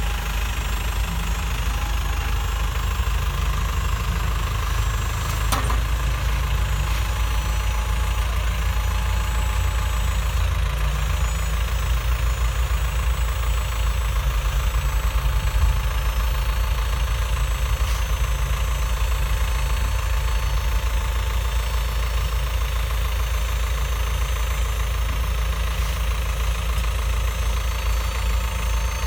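Dump truck engine idling steadily, with one sharp click about five and a half seconds in.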